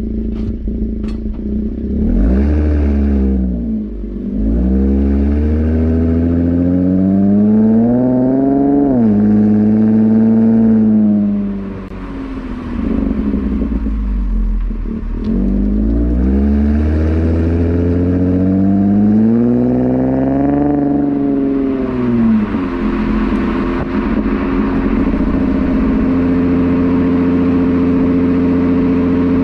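Holden VE Commodore SV6's 3.6-litre V6 through J-pipe rear mufflers, accelerating in two long pulls with the engine note climbing and dropping sharply at each gear change, then running at a steady note for the last several seconds.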